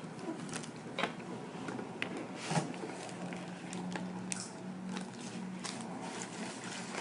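A paper book being handled: quiet rustling with scattered small clicks, and a faint low hum through the middle.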